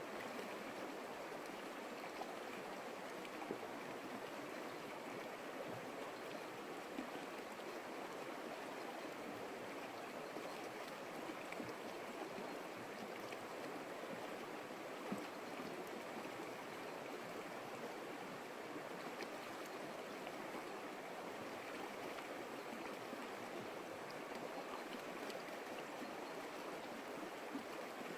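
Creek water flowing steadily, an even rushing and gurgling with a few brief small splashes.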